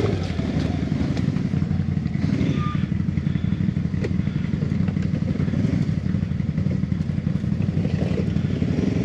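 ATV engine running steadily at low revs with an even, rapid pulsing, with a few light clicks.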